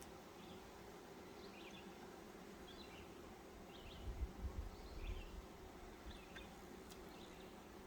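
Honeybees humming steadily around an open hive, with short bird chirps scattered through and a few low bumps about four to five seconds in.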